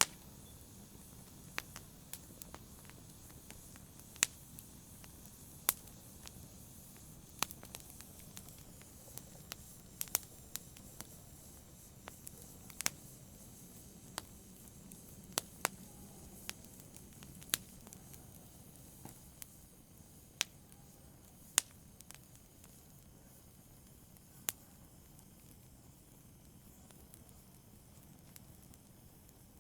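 Wood fire burning in a fireplace: a low steady hiss and rumble with sharp, irregular crackles and pops, fewer in the last few seconds.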